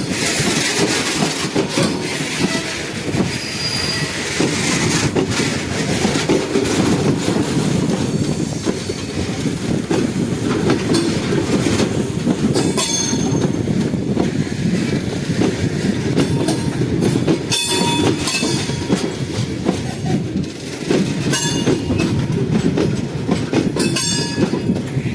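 Steady rumble of a moving train's wheels on the track, broken several times by clusters of sharp clacks as the wheels run over rail joints and crossover points.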